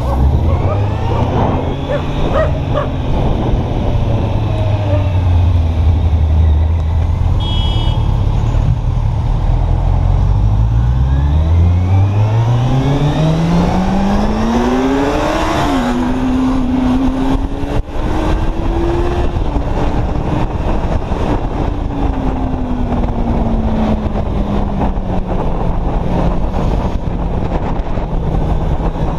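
Kawasaki Z800's inline-four engine pulling away and riding, with wind rush: the engine runs low for the first several seconds, its pitch climbs steadily as it accelerates, drops back at a gear change about fifteen seconds in, then slowly falls while cruising. A brief high-pitched beep sounds about seven seconds in.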